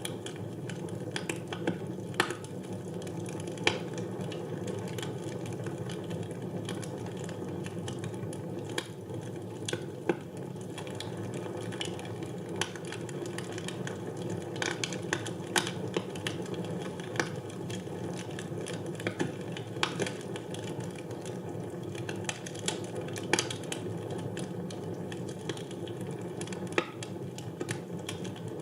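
Wood fire burning in a fireplace: a steady low flame noise with irregular sharp crackles and pops, a few of them louder snaps.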